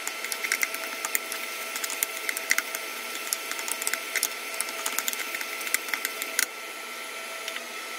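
Beaten egg and sliced white onion sizzling in hot oil in a frying pan as they are stirred and scrambled, with a steady hiss and frequent irregular crackles and pops. A faint steady tone runs underneath.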